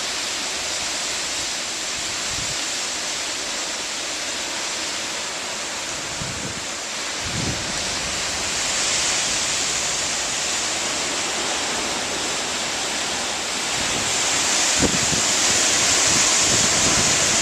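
Steady rushing wind with a few low buffets on the microphone, getting louder in the second half.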